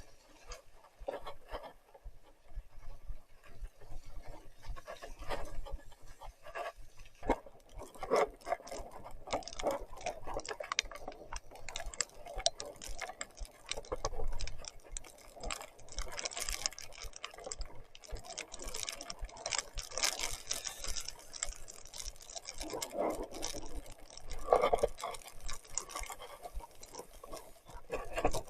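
Wet, crackling noise of mountain biking in rain and mud: irregular small clicks and splashes throughout, with a few louder swells, one about eight seconds in and two more near the end.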